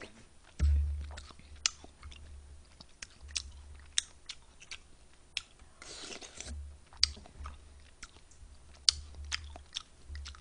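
Close-miked chewing and biting while eating, with many small scattered clicks and smacks.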